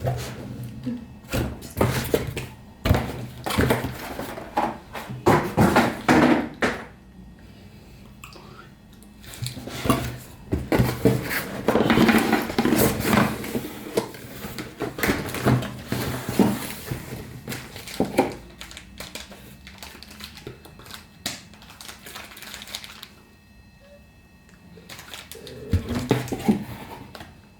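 Irregular clattering and knocking of hard objects being handled, in bursts with quieter gaps between them.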